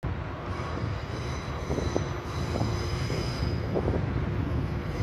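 Passenger train rolling slowly into the station: a low rumble with high-pitched wheel squeal from the rails.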